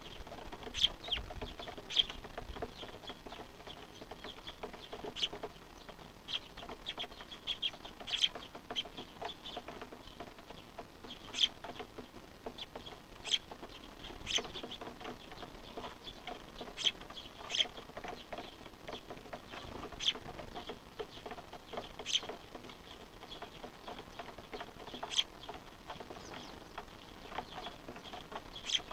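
Small wild birds calling: short, sharp, high chirps at irregular intervals of one to three seconds, in keeping with fledglings begging for food.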